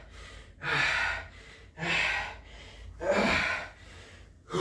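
A man breathing hard from exertion near the end of an 11-minute burpee workout: three loud, breathy gasps about a second apart, with a fourth starting at the end.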